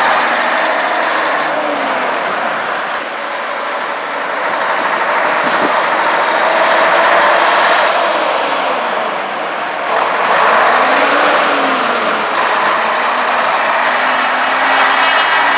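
Vintage trucks driving past one after another, their engine notes rising and falling as each one goes by, with a steady loud rush of engine and tyre noise.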